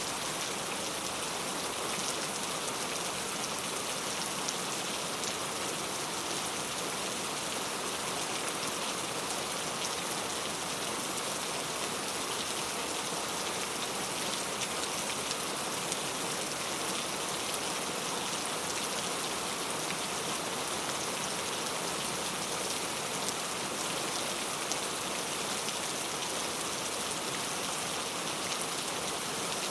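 Heavy rain falling steadily on hard street surfaces, an even hiss with many fine droplet patters.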